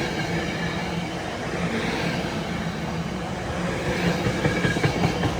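SEPTA Regional Rail push-pull train running past close by: a steady rumble of wheels on rail with a low steady hum underneath.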